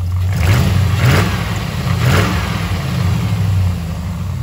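Range Rover 4.6-litre V8, running on newly fitted four-hole Bosch-type injectors, idling with two short revs, about half a second in and about two seconds in.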